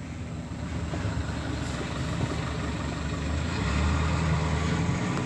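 A steady low mechanical rumble, like an engine idling, swelling slightly about three and a half seconds in.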